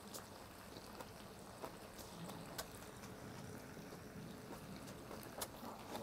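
Faint close-up chewing of a mouthful of meat, with a few small mouth clicks over a low steady hiss.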